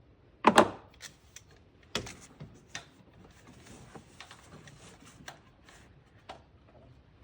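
Clicks and knocks of hand work on hoses and parts: a sharp double clunk about half a second in, another knock at about two seconds, then scattered light clicks and taps over a soft rustling.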